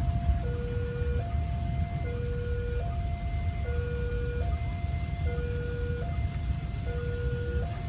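Railway level-crossing warning alarm sounding a steady two-tone hi-lo signal, each tone held just under a second, over a low rumble.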